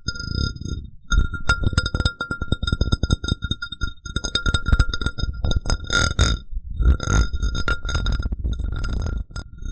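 Glass cup tapped and rubbed close to the microphone in quick strokes, ringing at a steady pitch with several high overtones over a low rubbing rumble, pausing briefly a few times.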